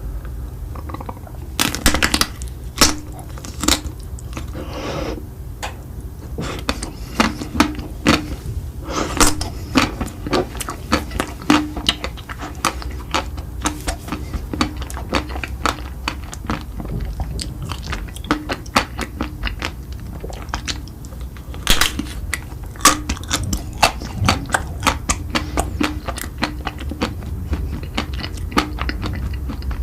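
Close-miked eating: a person biting and chewing, heard as many sharp, irregular wet clicks and smacks that come in quick clusters.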